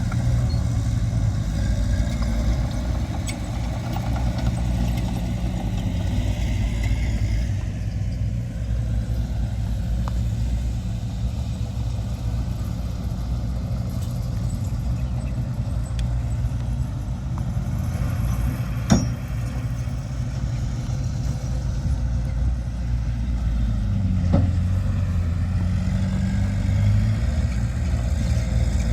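Heavy diesel earthmoving machinery running steadily. There is one sharp knock about two-thirds of the way through, and near the end the engine pitch dips and rises again as it takes load.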